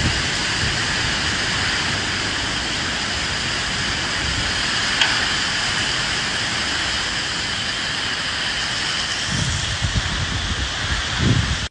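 Steady rain falling with wind blowing through it; deeper gusts of wind come in near the end.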